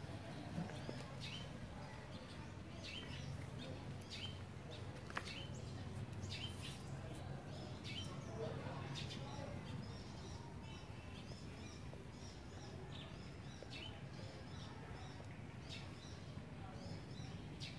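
Outdoor ambience: many short, high bird chirps scattered throughout, over a steady low hum.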